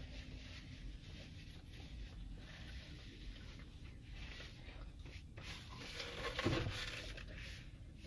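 Soft eating sounds close to the microphone: quiet chewing and faint crackly rustling, with a brief low hum about six and a half seconds in.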